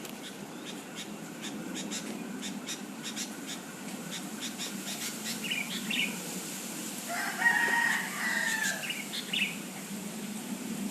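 Birds calling: short chirps around five to six seconds in and again near the end, and one longer pitched call lasting over a second about seven seconds in, the loudest sound. Faint repeated ticking runs through the first few seconds.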